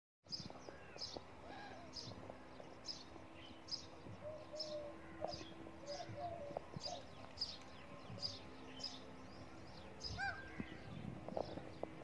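Wild birds calling: one bird repeats a short, high note at an even pace, about three every two seconds, with softer, lower chirps from other birds in between.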